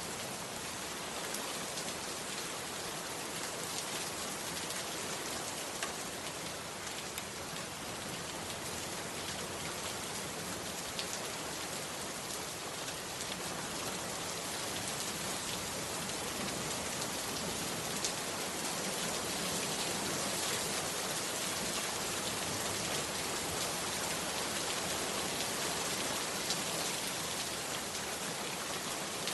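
Heavy rain falling steadily on a bamboo hut, with scattered drops ticking. It grows slightly louder about halfway through.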